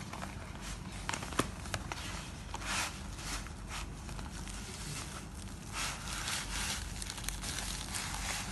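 Crinkling and rustling of a wrapper being handled, in irregular short bursts with a few sharp crackles.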